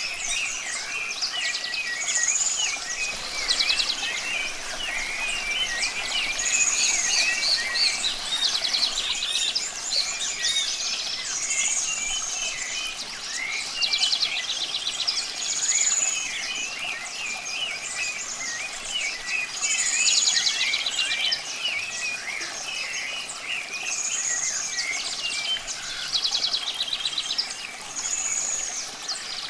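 Several songbirds singing together: busy chirps, rapid trills, and one high slurred note repeated every four to five seconds, over a steady faint rush of running water.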